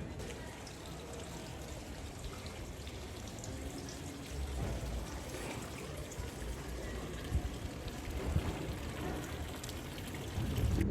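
Steady splash and trickle of running water, with a few faint clicks over it.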